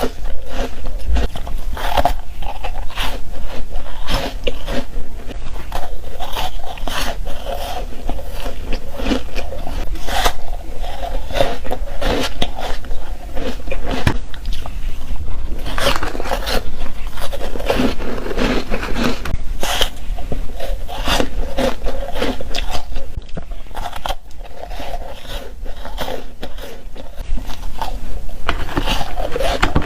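Close-up, continuous crunching of ice being bitten, many sharp irregular crunches one after another with scraping between them.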